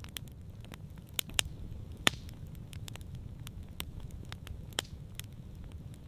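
Campfire crackling, with irregular sharp pops, the loudest about two seconds in, over a steady low rumble.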